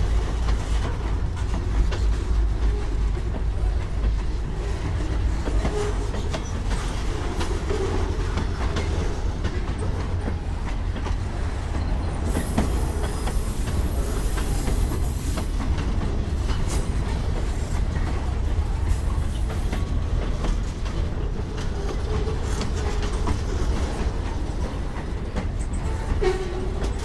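Freight train of boxcars rolling past: a steady low rumble with the wheels clicking over rail joints, and a faint high squeal for a few seconds about halfway through.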